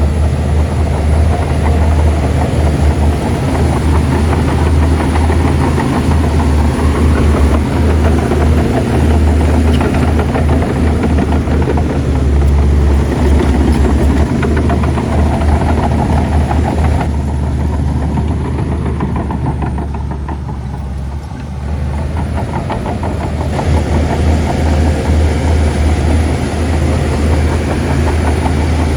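Shantui bulldozer's diesel engine running hard with a deep, steady rumble; about two-thirds of the way through it eases off for several seconds, then comes back up to full power.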